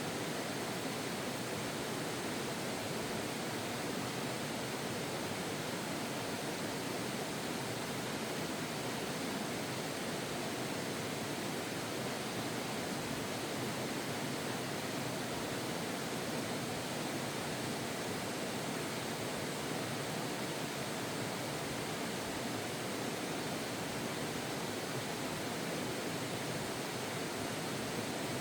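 Steady, even rushing of running water in a forest, unchanging throughout with no distinct calls or knocks.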